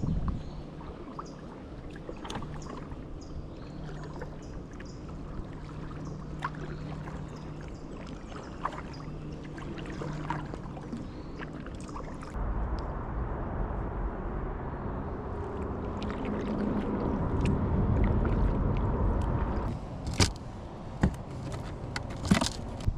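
A low steady hum with scattered light clicks, then a rising rush of wind noise on the microphone that drops away suddenly, followed by a few sharp knocks near the end.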